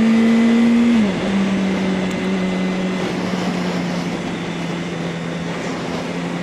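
Yamaha R1's inline-four engine running under way, its note dipping about a second in and then holding lower and steady, with wind rush on the rider's microphone.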